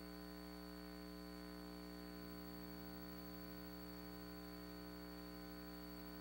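Faint steady electrical hum with hiss, with no other sound.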